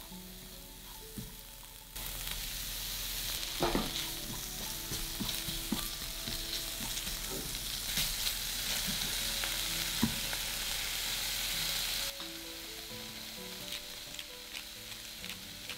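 Diced onion, carrot and chicken sizzling as they stir-fry in melted butter in a frying pan, with the clicks and scrapes of a spatula stirring them. The sizzle swells about two seconds in and drops back near the end.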